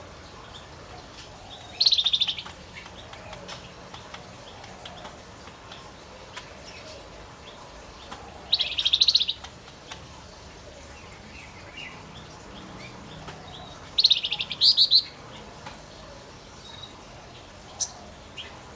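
Male wergan Jawa (Javan fulvetta) singing: three short bursts of rapid, high trilled notes, spaced about six seconds apart, with faint chirps between them.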